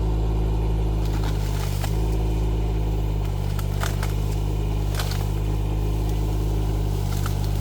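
Rippa R15 mini excavator's diesel engine running steadily under working load, its note shifting slightly about two seconds in, with a few short sharp cracks over it.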